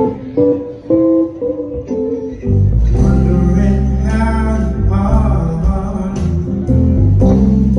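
Live blues band: a guitar plays a lick of single notes, then the full band with bass comes in about two and a half seconds in, and a voice sings over it.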